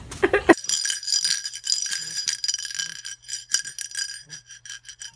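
Light jingling and tinkling: many small quick clicks over a few held high ringing tones, starting suddenly about half a second in.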